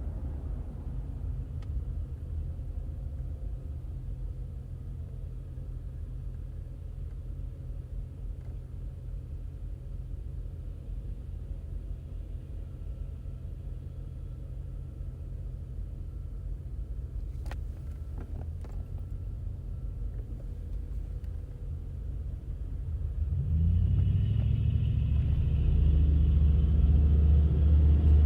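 Car driving with a steady low engine and road rumble; about 23 seconds in the engine note rises and the rumble grows louder as the car accelerates.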